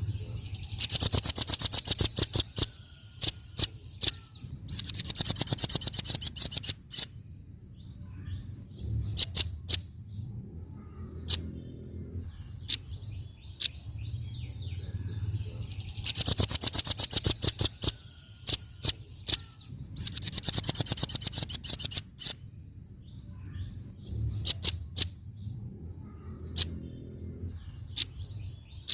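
Velvet-fronted nuthatch calling: four bursts of rapid, high, sharp chips about two seconds each, with scattered single chips between them, over a low steady hum.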